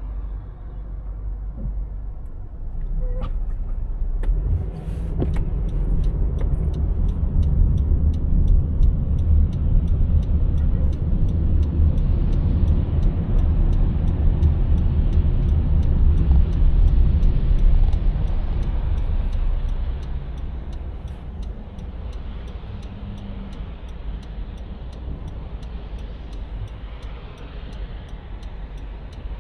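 Car driving, heard from the vehicle: a low road and engine rumble that builds over the first few seconds, runs loudest in the middle and eases off near the end, over a hiss of tyres on the road. Faint regular ticking runs through it, about two ticks a second.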